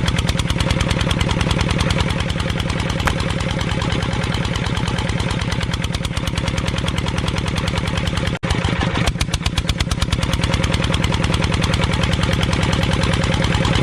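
Small engine on a homemade chaff cutter running steadily with a fast, even firing rhythm. It breaks off for an instant a little past the middle.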